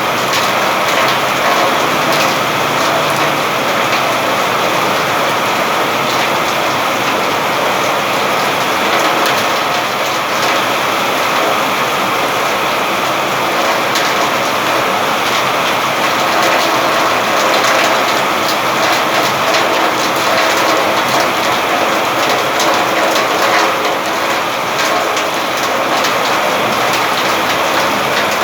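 Steady heavy rain falling on surfaces, a continuous hiss scattered with the tick of individual drops.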